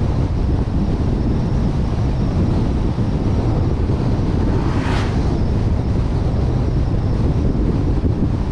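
Wind rushing over a suction-mounted GoPro's microphone on a moving vehicle, with a steady low rumble of road and engine noise. A brief sharp hiss comes through about halfway.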